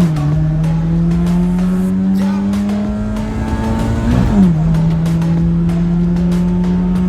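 Car engine accelerating hard through the gears during a drag run: its pitch climbs steadily, then drops sharply at an upshift right at the start and again about four seconds in.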